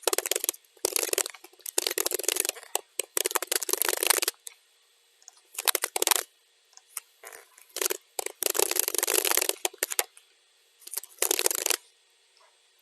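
Computer keyboard being typed on in quick runs of keystrokes, with short pauses between the runs, played back at double speed.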